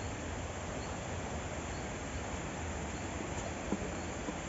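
Steady forest background noise with faint insect and bird chirps, and a couple of soft rustles or footsteps on leaf litter near the end.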